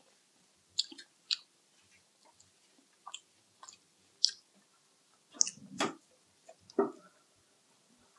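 Close-miked chewing and wet mouth sounds of a person eating: irregular short smacks and clicks with quiet gaps between, the fullest cluster about two-thirds of the way through.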